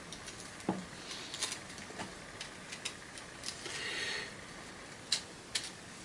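Irregular small clicks and light scraping of solid copper wire being pried and pulled out of an old vacuum cleaner by hand.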